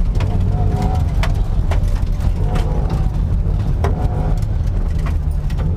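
Car engine running steadily, close up: a deep, even rumble with scattered sharp clicks.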